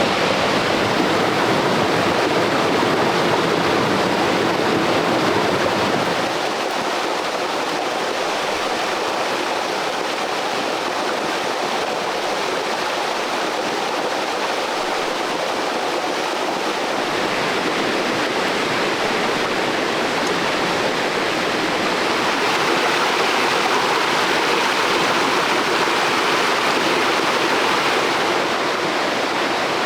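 Stream water rushing and splashing steadily over rocks. Its deepest rumble drops away about six seconds in, and the sound shifts slightly a couple more times.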